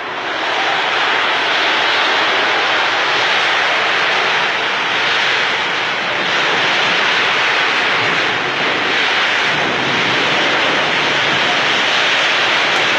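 Heavy storm rain pouring down in a steady, loud hiss, swelling slightly now and then.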